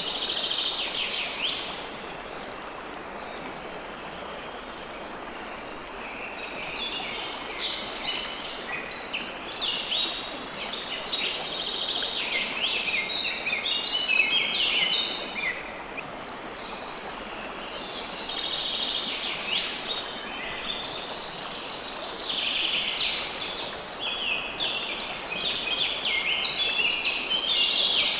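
River water flowing steadily, with songbirds chirping over it in bouts of rapid song that come and go, with short lulls in between.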